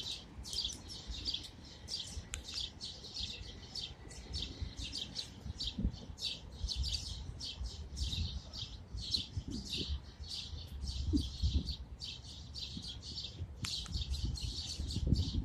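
A flock of a dozen or more birds chirping all at once, a dense, constant chatter of overlapping short chirps over a low background rumble.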